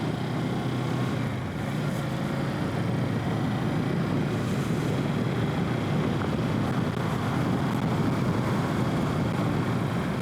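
Kawasaki Z650's parallel-twin engine running steadily while the motorcycle is ridden, heard from a helmet-mounted microphone along with road noise.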